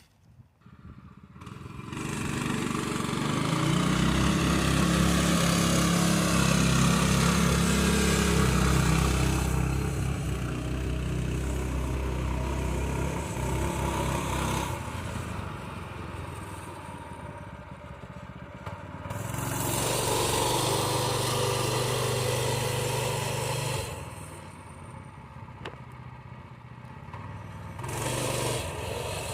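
Harbor Freight Predator 212 single-cylinder engine driving a small pickup truck up a hill, its engine note rising and falling: loud for several seconds, fading, then swelling again.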